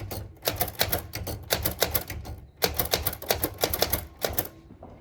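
Typewriter keys being struck in quick runs of several clicks a second, with a short break about halfway and another near the end.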